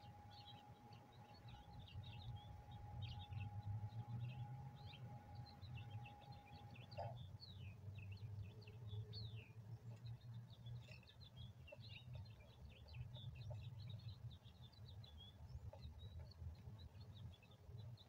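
Small birds chirping and twittering faintly, many short repeated chirps with a few falling notes, over a low steady hum. A thin steady tone cuts off with a click about seven seconds in.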